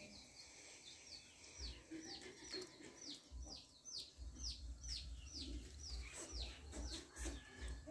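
A bird's faint, high peeping notes, each falling in pitch, repeated about two to three times a second.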